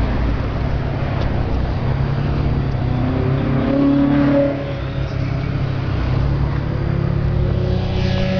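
Car engines running, a steady low drone; another engine's tone swells briefly about three and a half seconds in and drops away a second later.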